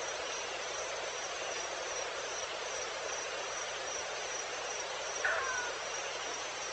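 Evening wild ambience: an insect chirping at a high pitch in a steady pulse, about three chirps a second, over a constant hiss. About five seconds in, a single short animal call falls in pitch.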